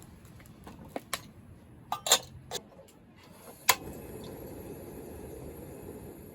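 Several light clinks and knocks of small hard objects such as dishes or utensils being handled, then a sharp click about two-thirds of the way in, followed by a steady low rushing noise.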